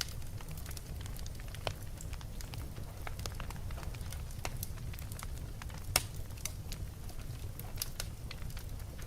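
Wood fire burning in a fireplace: a steady low rumble from the flames with frequent irregular crackles and pops, one sharper pop about six seconds in.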